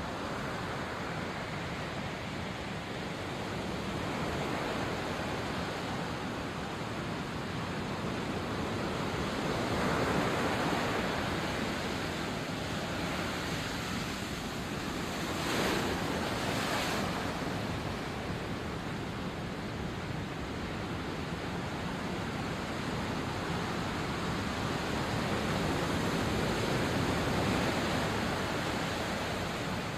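Sea waves washing onto the shore: a steady rush of surf that swells louder several times, most sharply about halfway through.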